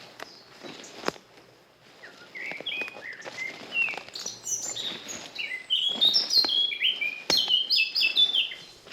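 A songbird singing a fast run of short, high chirping notes that starts about two seconds in and gets busier, over occasional soft footsteps on a forest path.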